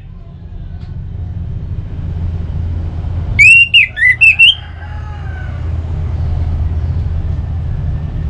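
Orange-headed thrush singing one short phrase of loud, clear whistled notes with quick pitch slides, about three and a half seconds in, over a steady low rumble.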